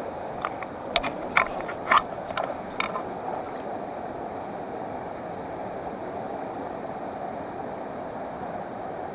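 Steady rushing of a waterfall, with a quick run of about ten sharp clicks and taps in the first three seconds.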